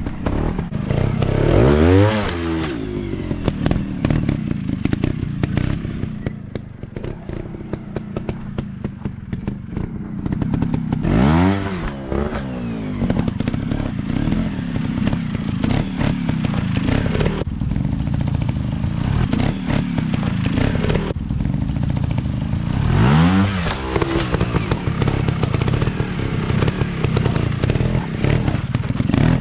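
Small dirt-bike engines running under riding load. Three times, about ten seconds apart, an engine revs up sharply and drops back. Many short knocks and clatters sound throughout.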